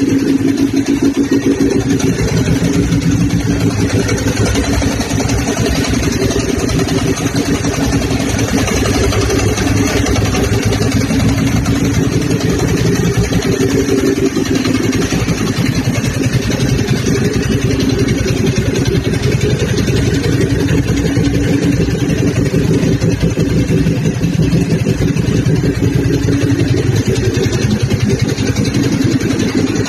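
Ducati 999's L-twin engine idling steadily.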